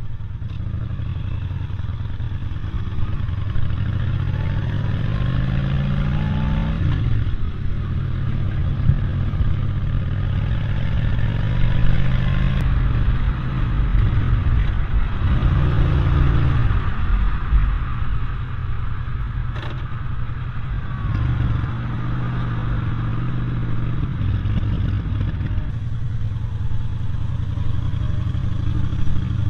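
A vehicle engine running under way, its pitch climbing and dropping several times as it speeds up and eases off, over a steady low rumble of wind and road noise.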